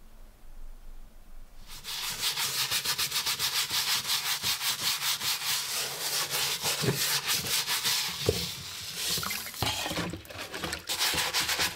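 Rapid back-and-forth sanding or scrubbing strokes on the steel shell of a WW2 German M40 helmet. They start about two seconds in and keep up a fast, even rhythm.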